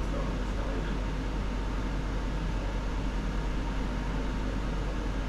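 Steady room noise with a constant low hum, unchanging throughout.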